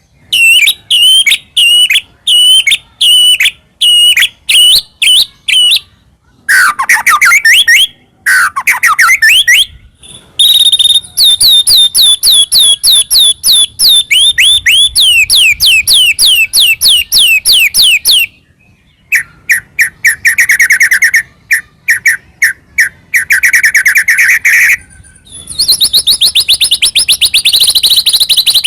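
White-rumped shama singing loudly in phrases with short pauses between them. It opens with sharp repeated notes about two a second, then gives a few lower falling notes, and then fast trills of rapidly repeated notes that run for several seconds at a time.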